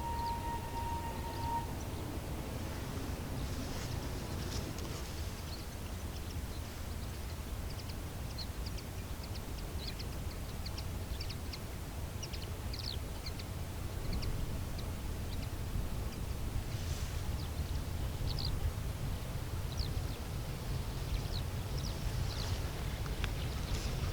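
A steam locomotive whistle held on one steady note cuts off about a second and a half in. Then short, scattered bird chirps sound over a steady low rumble.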